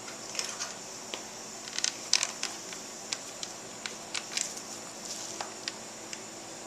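Scattered light metallic clicks and taps of a motorcycle's front brake caliper and pads being handled and fitted over the disc rotor, over a steady faint hiss.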